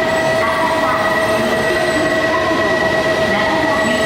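Shinkansen train moving along the platform, a steady high squeal of two held tones over the rumble of its running gear.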